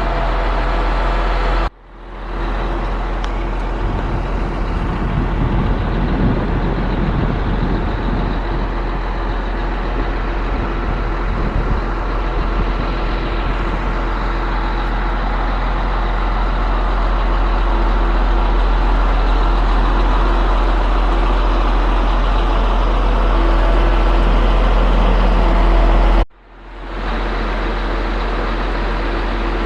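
Truck-mounted concrete pump's diesel engine running steadily under load, with a continuous low hum. Twice the sound cuts out suddenly and fades back in.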